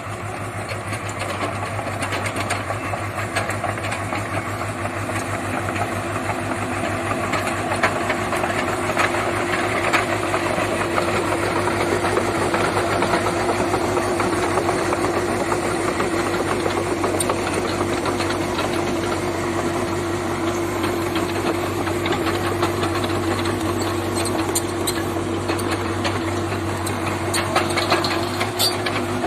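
JCB JS81 excavator's diesel engine running steadily as the machine works, with a fast, even clatter and a steady whine over it.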